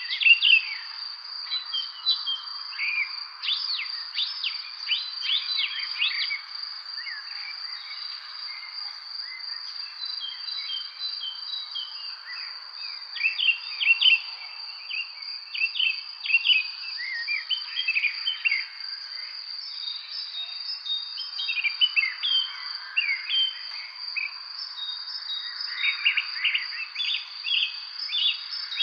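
Evening chorus of songbirds chirping and twittering in quick, overlapping bursts, over a continuous high-pitched insect trill.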